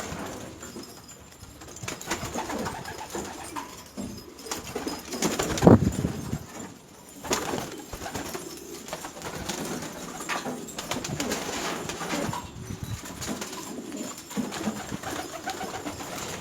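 Domestic pigeons cooing, a series of low coos with the loudest about six seconds in, over scattered short clicks and rustling.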